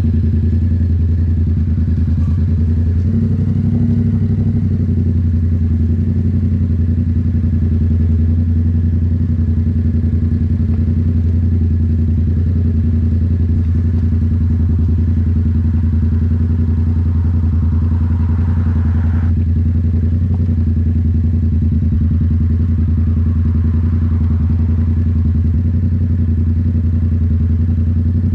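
Yamaha MT-07's parallel-twin engine running through a loud aftermarket Toce full exhaust, holding a steady engine speed while cruising. The pitch stays level throughout, with no revving.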